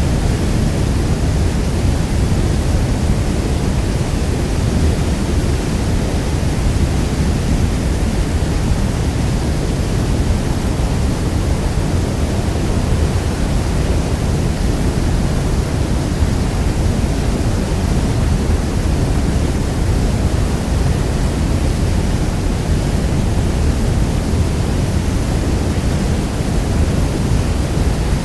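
Niagara Falls thundering: a steady, deep roar of falling water, even and unbroken.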